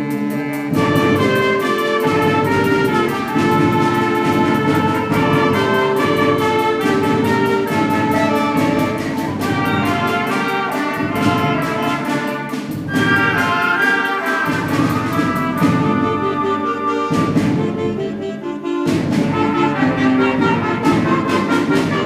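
School concert band of winds and percussion playing, with brass such as trumpets and trombones prominent in held chords. The band cuts off together at the very end and the sound dies away.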